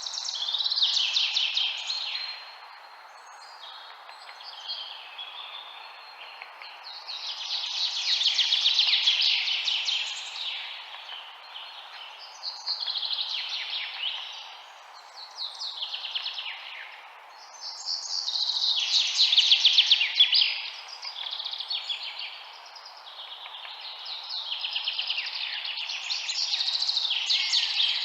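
Songbirds singing in repeated phrases of a couple of seconds each, often trilled and falling in pitch, about six times, over a steady background hiss.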